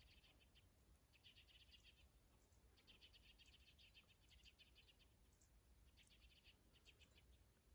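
Faint bird calls: rapid pulsed trills, each lasting under a second to about two seconds, repeated several times, over a low background rumble.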